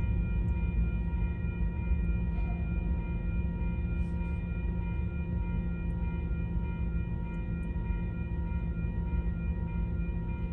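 Diesel train running past: a steady engine drone with a dense low rumble, slowly fading.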